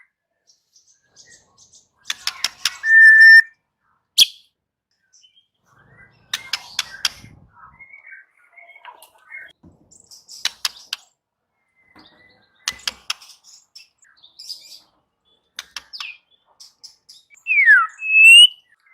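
White-rumped shama singing in short bursts of rapid clicking notes and clear whistles, with pauses between phrases. There is a held whistle about three seconds in, and a falling whistle followed by a rising one near the end.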